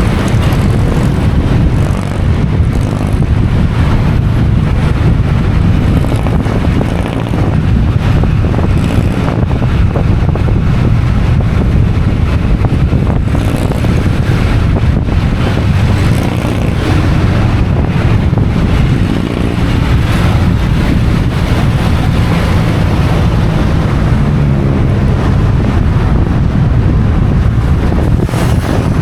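Motorcycle running on the move, its engine mixed with heavy wind rumble on the microphone.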